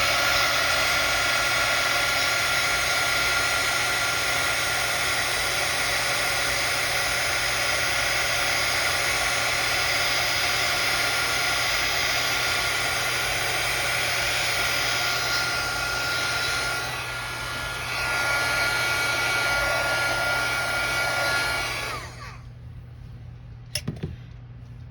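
Craft heat tool running steadily, blowing hot air to heat set and dry wet ink on watercolor paper: a rush of air with a steady whine from its fan motor. It dips briefly about 17 seconds in and switches off about 22 seconds in.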